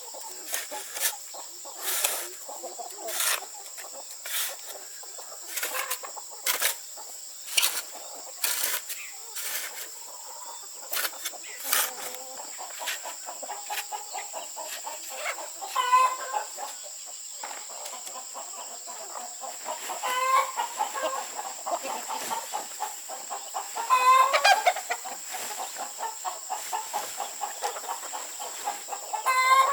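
Chickens clucking, with several longer, wavering calls in the second half. Sharp knocks come about once a second through the first half, and a steady high-pitched tone runs underneath.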